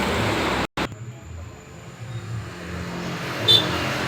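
Truck running on the road, heard from the cab: a steady low engine drone with road noise. Under a second in the sound cuts out for an instant, then carries on quieter, with one short sharp click near the end.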